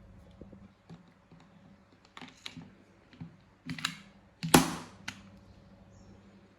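Metal and plastic clicks and clacks from handling a Colt M1911 airsoft pistol, with small ticks at first, then two short bursts of clacks, and one much louder sharp snap a little past the middle.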